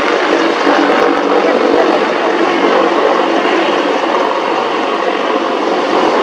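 AH-64E Apache attack helicopter running steadily overhead, a constant loud rush of turbine and rotor noise, with crowd voices underneath.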